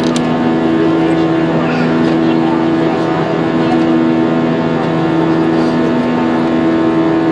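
Airbus A320 jet engines and airflow heard from inside the cabin in flight. The drone is loud and steady, with several steady hum tones over an even rush of noise.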